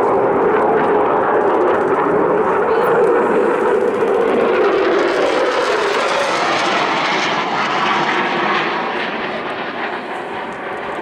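Eurofighter Typhoon FGR4's twin EJ200 jet engines in full afterburner during a fast low pass, a loud steady rushing jet noise. About halfway through it turns brighter and hissier, then eases off slightly toward the end.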